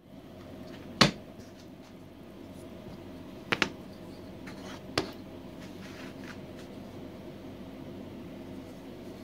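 Four sharp knocks over a steady low hum: a loud single knock about a second in, a quick double knock a few seconds later, then one more.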